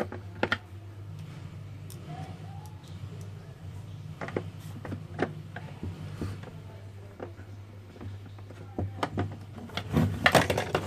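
Scattered light clicks and taps of hands working on a small plastic egg incubator's parts, growing denser and louder near the end, over a steady low hum.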